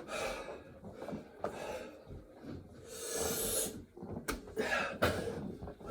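A man breathing hard in heavy, hissing gasps and exhales, worn out near the end of a long set of burpees. Two short sharp knocks come in the second half.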